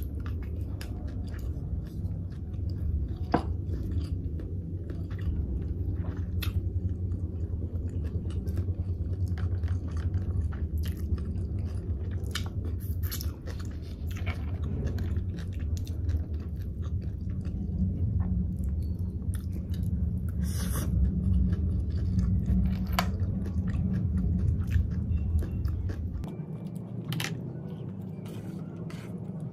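Close-miked chewing of rice and sea snails, with many short wet clicks and smacks of mouth and shells. A low steady hum underneath drops away near the end.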